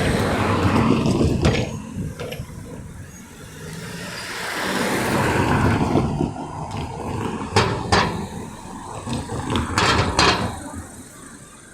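Road traffic passing, with two swells of engine and tyre noise and a few sharp knocks in the second half.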